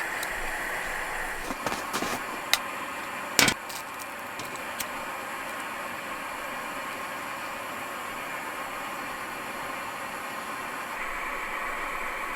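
Camp stove burning with a steady rushing hiss, broken by a few sharp clicks and one louder knock about three seconds in.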